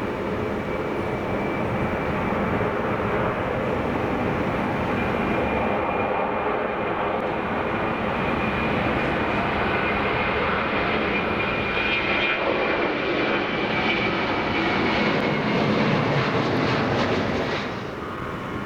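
Twin-engine Airbus A330-200 jet airliner on its take-off run, the engines running at take-off power with a high whine that slowly falls in pitch. The engine noise grows to its loudest about 16 seconds in, then drops off abruptly near the end.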